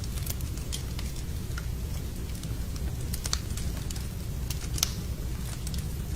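Fireplace wood fire burning: a steady low rumble of flames with irregular sharp crackles and pops, the loudest pop nearly five seconds in.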